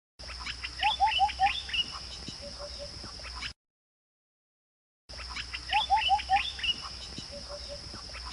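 Birds chirping: a quick run of short rising chirps among higher tweets, heard twice in identical three-second stretches with about a second and a half of dead silence between.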